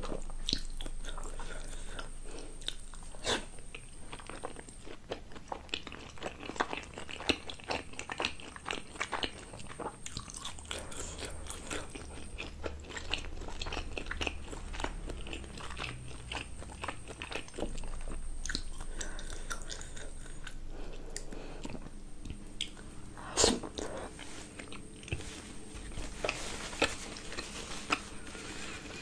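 Close-miked chewing of steamed momo dumplings, with many small mouth clicks and smacks and one sharper, louder click late on.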